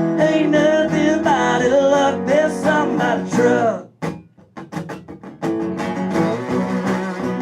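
Live acoustic country music on guitar. For the first four seconds a wordless vocal run slides over the chords. The music then drops almost away to a few sparse plucked notes, and the strumming picks up again about five and a half seconds in.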